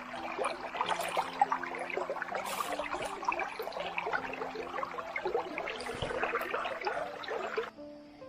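Shallow mountain stream water trickling and splashing, with soft background music underneath. Near the end the water sound cuts off suddenly, leaving only the music.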